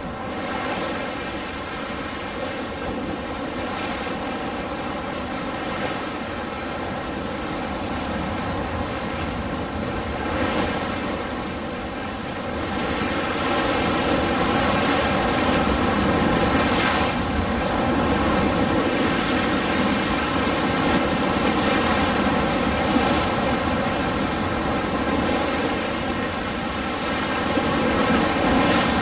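Ocean surf: a continuous wash of breaking waves that swells louder about halfway through. A faint steady drone runs beneath it.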